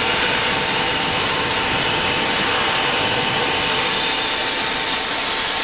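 Steady cockpit noise of a Boeing 737-200 freighter with its Pratt & Whitney JT8D jet engines running: an even rush of engine and air noise with a thin, steady high whine over it.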